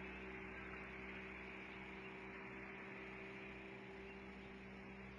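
Faint, steady drone of a distant motorboat engine: an even low hum that does not change.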